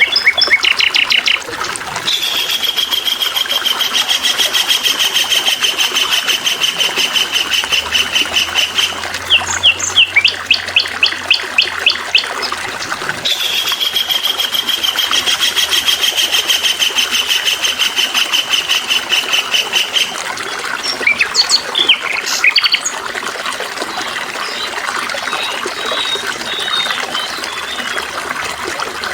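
Songbird singing over the steady trickle of running water: two long, fast trills of several seconds each, with quick separate chirps between them and later on.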